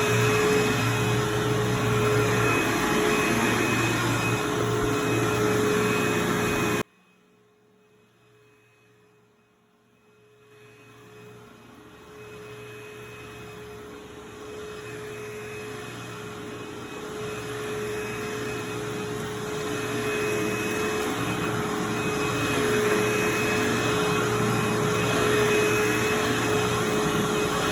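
Vacuum cleaner running steadily on carpet with a constant hum. About seven seconds in, the sound cuts off abruptly to near silence, then comes back gradually over the next ten seconds.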